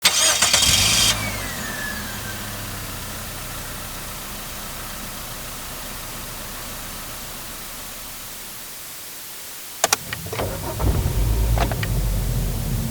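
Passenger car engine sound effects. An engine starts with a loud burst and a whine that falls away, then idles with a low hum that slowly fades. About ten seconds in, two sharp clicks are followed by an engine cranking and starting, which settles to a steady idle.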